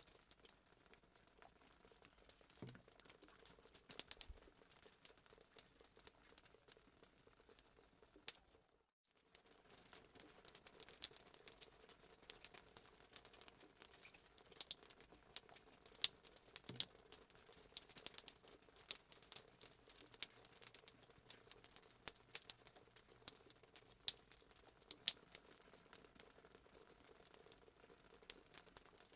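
Fireplace sound effect: a wood fire crackling with many small irregular pops, cut out for a moment about nine seconds in.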